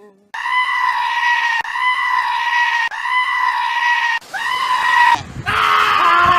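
A goat screaming in long, high-pitched, steady bleats, four in a row of about a second each. About five seconds in comes a lower, rougher call.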